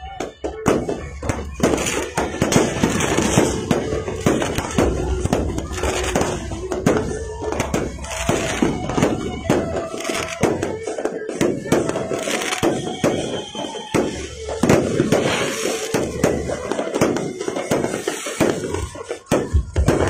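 Fireworks bursting in a rapid, continuous barrage of bangs and crackles, with music playing underneath.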